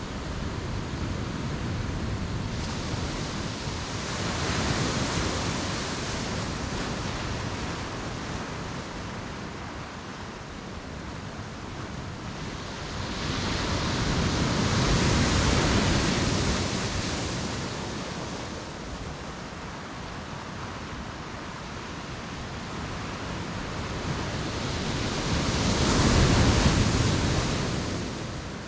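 Ocean waves washing onto the shore: a steady surf hiss that swells three times, rising and falling roughly every eleven seconds.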